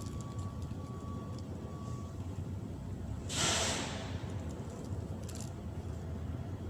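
A steady low rumble throughout, with a single short, loud hiss lasting under a second about three and a half seconds in.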